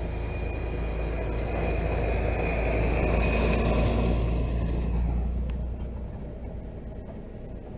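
Motor vehicle engine and road noise, a steady rumble that swells to its loudest midway and then fades off about five seconds in.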